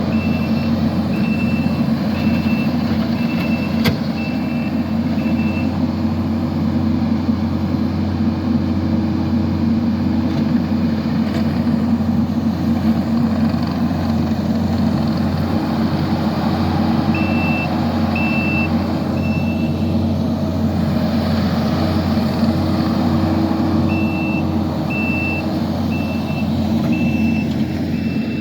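Kubota SVL65 compact track loader's diesel engine running steadily at working speed, its reversing alarm beeping about one and a half times a second in three spells as it backs up: at the start, briefly in the middle, and again near the end.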